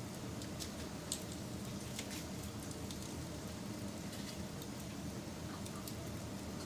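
Wood campfire burning, crackling with scattered, irregular sharp pops over a steady low rush of flame.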